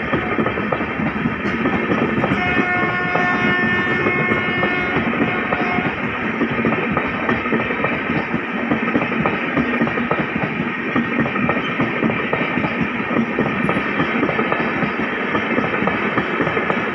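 Express train coaches passing at speed: a continuous rush of wheel and rail noise with rapid clattering over the rail joints. A steady high tone holds for about three seconds near the start.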